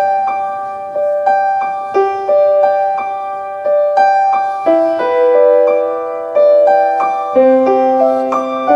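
Piano (or electric keyboard) playing a gentle introduction: a repeating pattern of broken chords, one note struck roughly every half second to second, each note ringing and fading.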